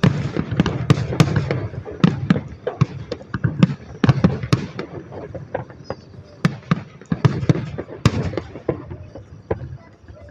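Fireworks display: a rapid string of bangs and crackling pops. The bursts come thickest at the start, again about four seconds in and around eight seconds, then thin out near the end.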